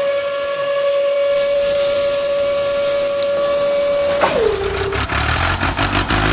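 A horn sounds one steady, high, held tone for about four seconds, then slides down in pitch and dies away; a run of rapid clicking and rattling follows.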